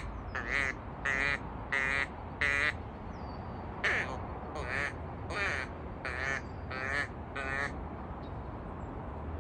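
A person calling ducks with imitation quacks: a rhythmic string of short, buzzy quacks, four in a row, a brief pause about three seconds in, then six more.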